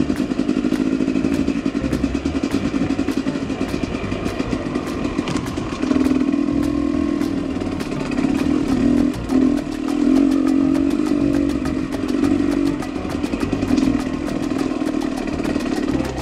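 Husqvarna TE250 enduro motorcycle engine running under way, with the revs surging up and easing off several times, about six seconds in and again around ten and thirteen seconds, and a fast, regular ticking over it.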